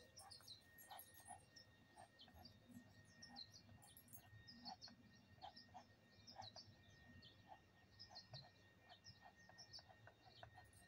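Faint birds chirping: many short, high chirps scattered through an otherwise near-silent stretch.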